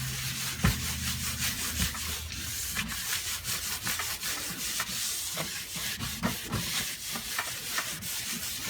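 Rubbing and buffing on the waxed steel toolbox, a continuous scratchy scrubbing with irregular scuffs. A low hum stops about two seconds in.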